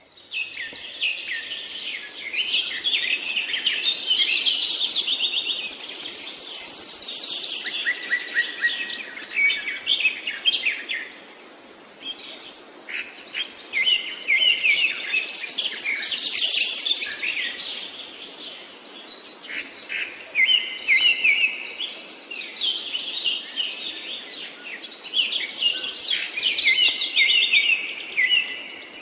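Yellow-vented bulbuls calling, dense rapid chirps and whistled phrases, with a high buzzy trill of about two seconds coming back roughly every ten seconds. There is a short lull about a third of the way through.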